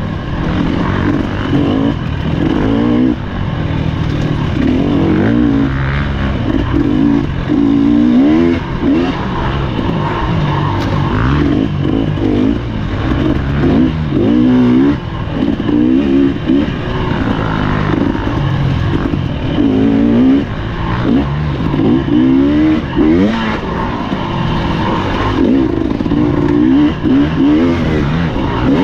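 Husqvarna TE300 two-stroke dirt bike engine running hard on a trail, revving up and dropping back every second or two as the throttle is worked.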